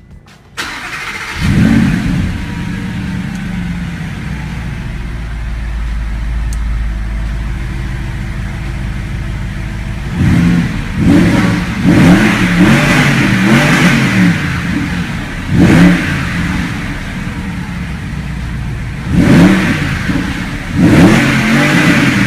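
Audi R8's 4.2-litre V8 starting up, flaring briefly and settling into a steady idle. From about ten seconds in it is revved in a series of short throttle blips, the pitch rising and falling with each one.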